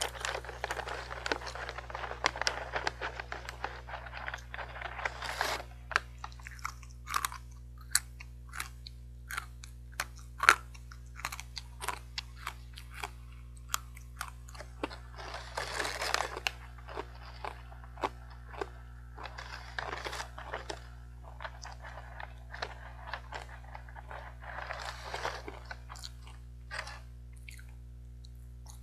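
Hard, crisp sweet potato sticks being bitten and chewed: dense crunching in stretches, with many sharp single cracks as pieces snap between the teeth in between.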